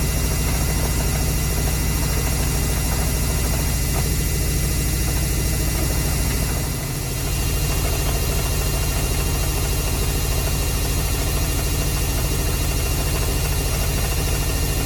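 Samsung washing machine in its spin cycle, running with a steady low drone and a rattle, the sign of an unbalanced spin. The level dips briefly about halfway through.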